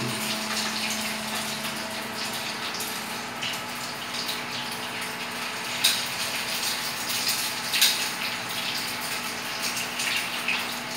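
Food frying in hot oil in a pan on a gas burner: a steady sizzle, with two sharp clicks of the metal tongs against the pan about six and eight seconds in.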